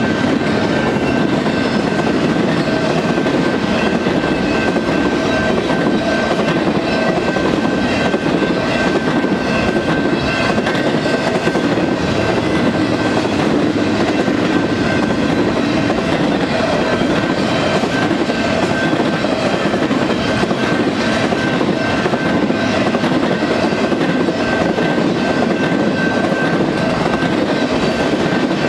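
Intermodal freight train's double-stack well cars and trailer-carrying flat cars rolling past: steady noise of steel wheels on rail with clicking over the joints and a thin, steady high whine.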